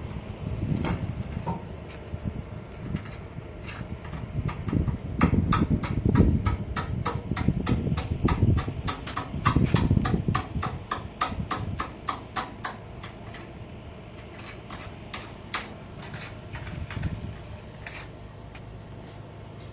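Rapid run of sharp taps, about three a second, over a low rumble that swells and fades; the taps thin out near the end.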